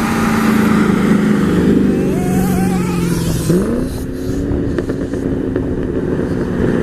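Vehicle engine running steadily, with a quick rev that rises in pitch about three and a half seconds in.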